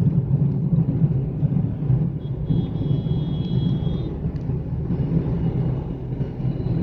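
Steady road and engine rumble of a moving Hyundai Xcent, heard from inside the car. A faint high steady tone comes in for about two seconds in the middle.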